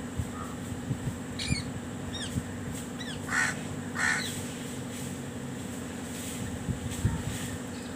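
Birds calling: a few quick high falling chirps, then two harsh caws about three and four seconds in, over a steady low hum.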